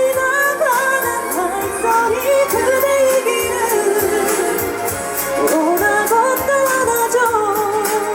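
A female pop singer singing a Korean ballad live, her voice sliding through long held notes over a backing track.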